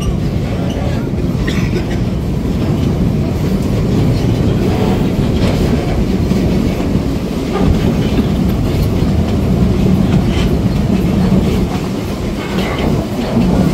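Train wheels rumbling steadily along the track, with a few scattered clicks, heard from an open-sided carriage of a steam-hauled train.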